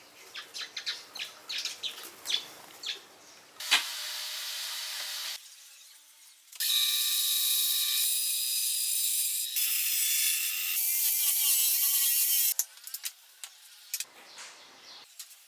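Woodworking tool sounds: a run of small clicks and knocks, then a power tool running in two stretches, a short one of about a second and a half and a longer one of about six seconds with a whine that wavers in pitch near its end, then more clicks.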